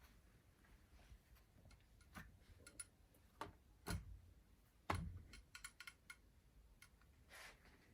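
Faint, scattered clicks and knocks over room tone. The two loudest come about four and five seconds in, and a quick run of small ticks follows them.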